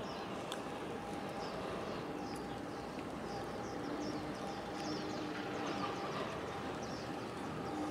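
Steady outdoor background noise with a small bird chirping over it, short high falling chirps about twice a second, and a faint steady hum underneath.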